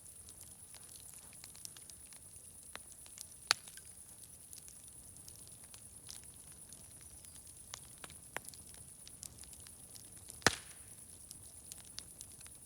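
Wood fire crackling: scattered small ticks and snaps, with two sharp loud pops, one early on and a louder one late, over a steady faint high hiss.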